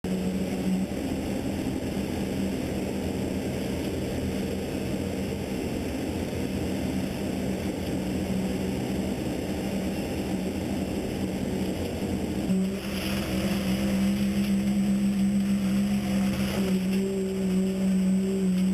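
Large engine of construction machinery running steadily with a low hum, its note changing and growing a little louder about two-thirds of the way through.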